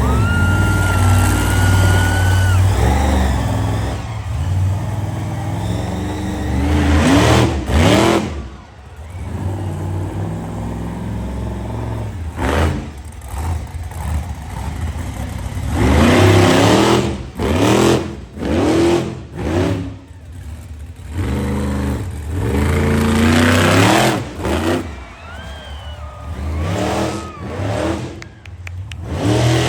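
Monster truck engine revving hard in repeated throttle bursts, the pitch climbing and dropping off again and again with short lulls between. A high steady tone sounds over it for the first few seconds.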